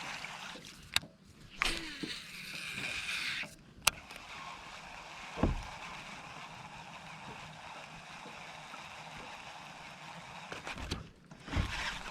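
Water sloshing and splashing around a fishing kayak, with two sharp clicks and a dull thump about five seconds in.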